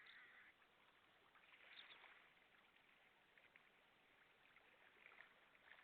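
Near silence: faint outdoor background with a few soft rushing swells and scattered light clicks.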